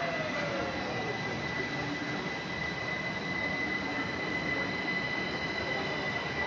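A train running, with a steady rumble and a thin, steady high-pitched whine or squeal over it.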